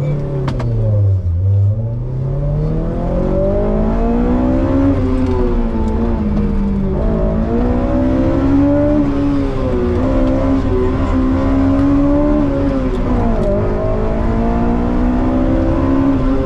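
Honda S2000's four-cylinder VTEC engine heard from inside the cabin, pulling away from a standing start: the revs dip in the first second as the car moves off, then climb and drop back several times as it accelerates up a winding road.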